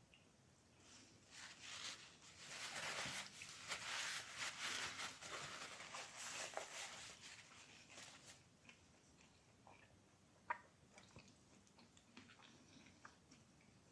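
Food being chewed and crunched, a dense crackly stretch loudest in the first half, then only faint scattered crunches with a single sharp click about ten and a half seconds in.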